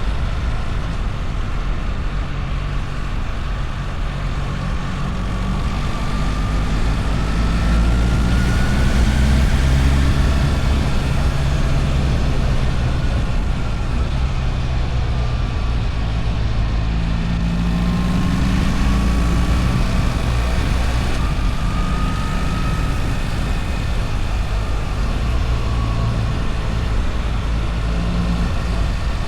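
BMW R1300 GS boxer-twin engine running on the move, its revs rising and falling several times.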